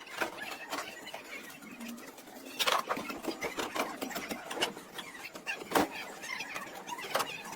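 Body-shop work on car metal: irregular knocks, clicks and clatter, with two sharper knocks, one about a third of the way in and one past the middle.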